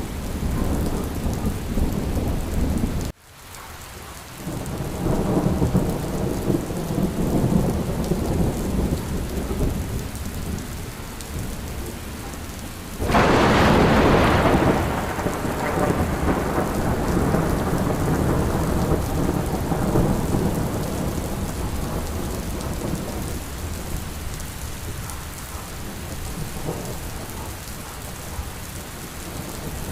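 Steady heavy rain with low rolling thunder. A loud, sharp thunderclap breaks about thirteen seconds in and rumbles away over a few seconds; the sound cuts out for a moment about three seconds in.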